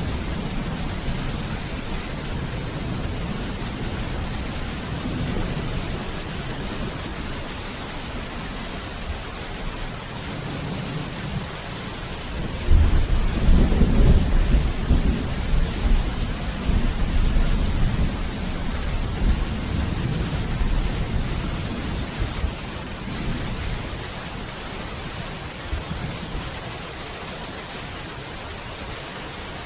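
Steady heavy rain with a low rumble of thunder. About halfway through a loud thunderclap breaks and rolls off over several seconds.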